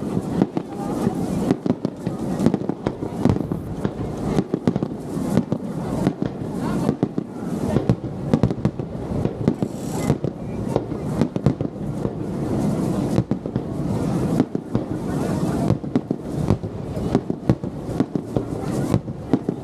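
Wide starmine fireworks barrage: many shells bursting in rapid succession, dense overlapping bangs over a continuous rumble, without a pause.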